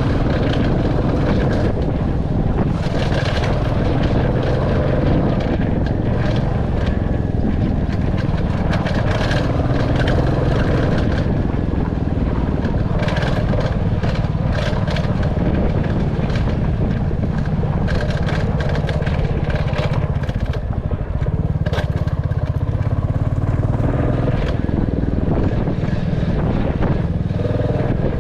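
Royal Enfield Classic 350's single-cylinder engine running steadily under way, with frequent sharp clicks and knocks over it.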